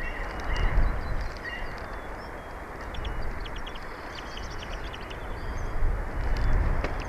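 Wind rumbling on an outdoor nest-camera microphone, gusting a little louder about a second in and again near the end, with faint, short, high bird chirps scattered through it.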